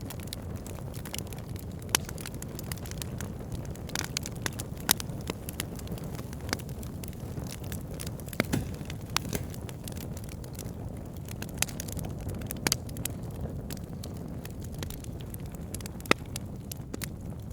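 Burning wood logs crackling and popping over a steady low rumble of flames, with sharp pops scattered irregularly and the loudest about 2, 5, 8 and 16 seconds in.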